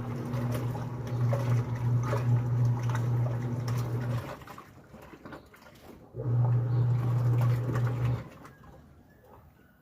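Midea washing machine agitating on its duvet cycle: the motor hums in runs of a few seconds with pauses between, and water sloshes in the tub.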